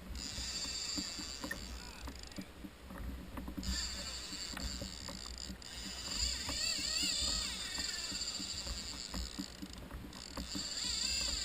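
Water washing and rushing against a fishing kayak on the sea, with a steady low rumble underneath. The hiss-like water sound drops away briefly twice.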